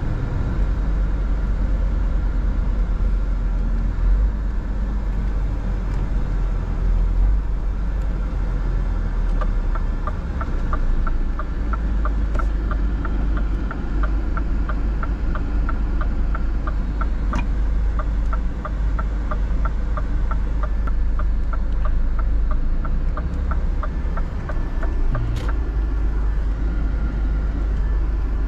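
Steady engine and road drone inside the cab of a Scania R 450 truck, with its 13-litre six-cylinder diesel running under way. From about ten seconds in until near the end, the turn-signal indicator ticks evenly at about two a second.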